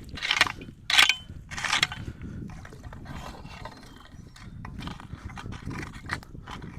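Debris being scraped and raked out of a clogged culvert opening: a few scraping strokes about two-thirds of a second apart in the first two seconds, the loudest about a second in, then quieter, irregular scraping.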